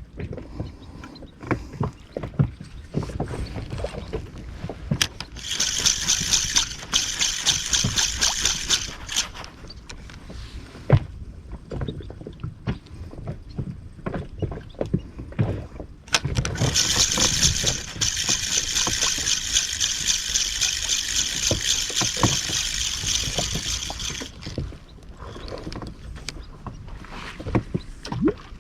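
Fishing reel whirring with a fast, fine clicking in two runs: one of about four seconds and one of about eight seconds near the middle. Low knocks and handling bumps on the inflatable boat come between the runs.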